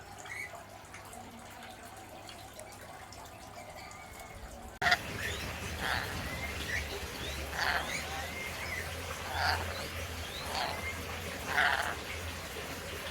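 A parrot calling: short, sharp calls with quick pitch slides, about one every second or two. They start abruptly at a cut about five seconds in, and before that only a few faint chirps are heard.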